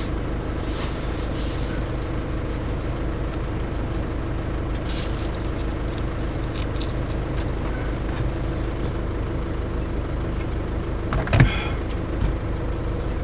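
A motor vehicle's engine running steadily, with one short thump about eleven seconds in.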